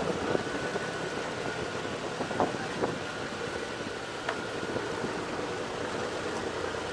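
Ferry's engine running steadily, a constant hum with the noise of water, and a few faint knocks.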